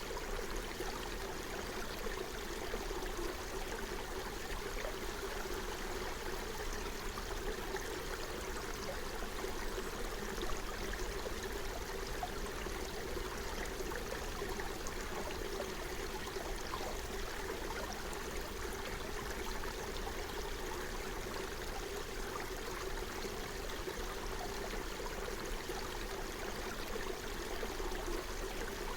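Forest stream flowing and burbling over stones, a steady rush of water.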